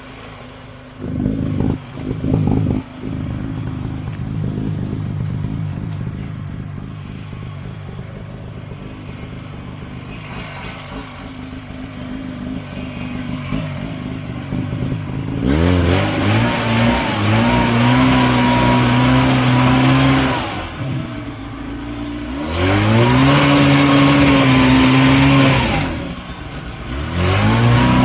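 Buran snowmobile's two-stroke engine running low, with a few loud knocks near the start. It is then revved hard three times, each rev climbing and holding for a few seconds before dropping back, as the machine labours stuck in slushy overflow water on the ice.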